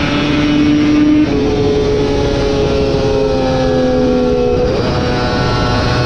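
Racing superbike engine shifting down about a second in, its pitch falling as it slows, then picking up again with the throttle opened near the end.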